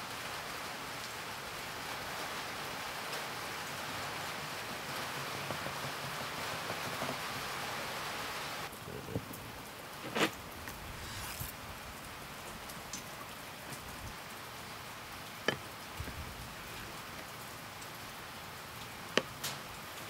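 Firewood burning in a clay stove's firebox: a steady hiss for the first half, then, after an abrupt drop in level, a few separate sharp crackling pops.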